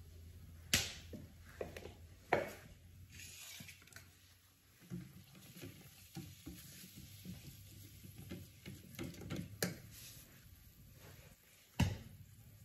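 Kitchen utensils and cookware being handled at the stove: scattered small clinks and scrapes, with four sharp clacks of metal or hard objects knocking against a pot or pan, two near the start and two near the end.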